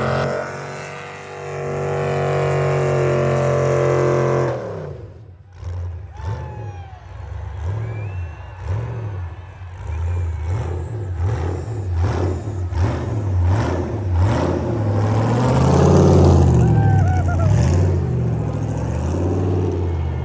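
Vehicle engine held at high revs for about four seconds, then dropping and being revved hard up and down over and over, as in a burnout.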